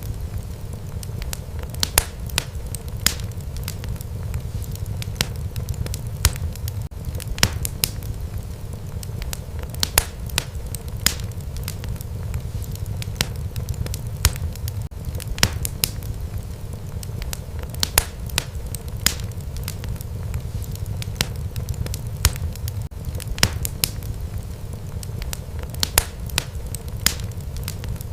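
Wood fire burning in a fireplace: a steady low rumble of flames with sharp pops and crackles at irregular intervals.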